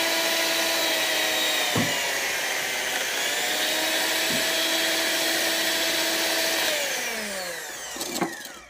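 Small handheld electric beater whirring steadily as it froths hot milk in a glass cup, with a couple of brief knocks. Near the end it is switched off and its pitch falls away as the motor winds down.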